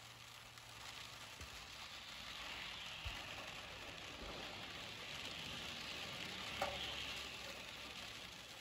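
Rain falling, with the hissing spray of vehicles driving past on a flooded road; the hiss swells twice, about a third of the way in and again past halfway. A single sharp tap sounds during the second swell.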